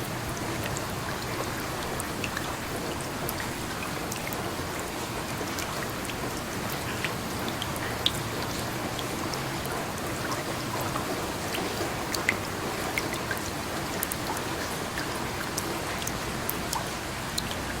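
Steady rain with individual drops ticking sharply on a hard surface, a few louder ones standing out now and then.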